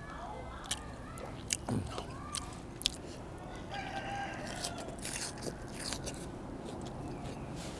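Close-up chewing and crunching of food, with sharp bites and crunches scattered throughout. A rooster crows in the background near the start and again about four seconds in.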